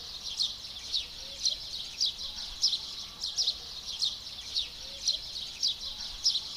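Birds chirping: short, high, falling chirps repeating a couple of times a second over a steady high hiss.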